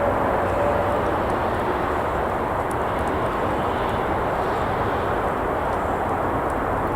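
Steady roar of traffic on a nearby road, with a faint engine tone fading out about a second in and a few light crackles from a campfire.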